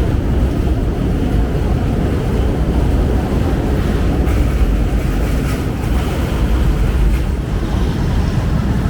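Steady low rumble of street traffic with wind buffeting the microphone.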